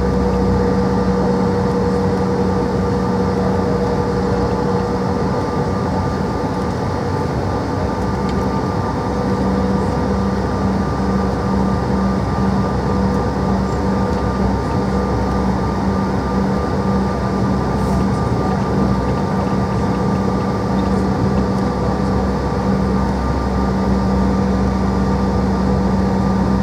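Steady drone of a Bombardier CRJ700's rear-mounted GE CF34 turbofan engines heard inside the passenger cabin: an even rushing noise with a few constant hums and whines, holding the same pitch throughout.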